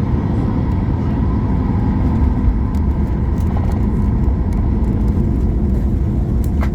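Steady low rumble of a Boeing 737 MAX 8 heard from inside the passenger cabin: engine and airframe noise.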